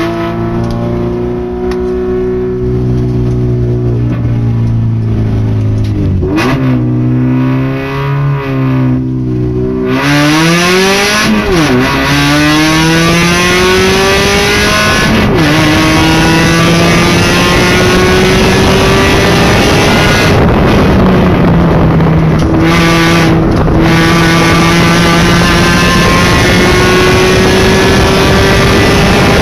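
Suzuki SX4's engine heard from inside the cabin, driven hard through the gears: the pitch climbs, drops sharply at each gear change several times, then climbs again. Road and wind noise grow louder as speed builds from about ten seconds in.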